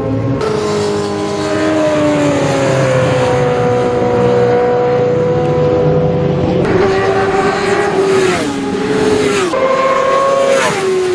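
Classic superbike racing motorcycle engines running hard at high revs. The engine pitch glides slowly, then drops and jumps several times in the last few seconds as gears change.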